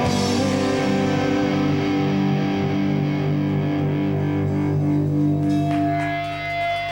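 Rock band's closing chord ringing out on distorted electric guitars and bass, with no singing, thinning out near the end as the song finishes.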